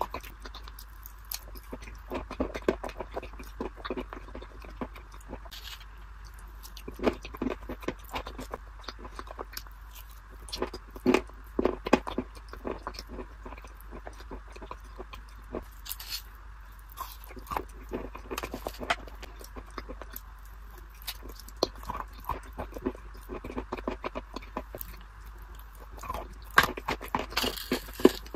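Close-miked chewing of cream-coated nuts: irregular crisp crunches mixed with wet mouth sounds, with a dense run of louder crunches near the end as a fresh spoonful is bitten. A steady low hum runs underneath.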